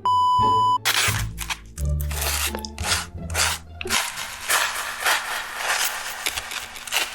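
A short electronic beep, then loud crunchy eating sounds: close-miked chewing and biting, with low bass notes under the first few seconds.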